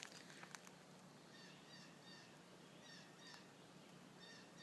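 Faint birdsong: a bird repeating short clusters of quick, high, falling chirps, three clusters about a second and a half apart.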